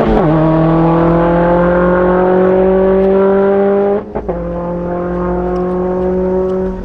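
Turbocharged Subaru WRX STI flat-four at full throttle, its pitch climbing steadily through the gears. Quick upshifts drop the pitch right at the start and again about four seconds in, and the throttle lifts near the end.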